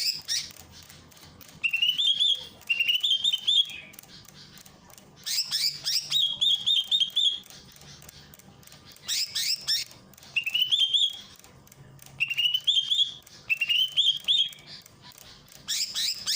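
Cucak ijo (green leafbird) singing in repeated phrases: bursts of high, sweeping notes alternate with short, rapid warbled trills, about every couple of seconds.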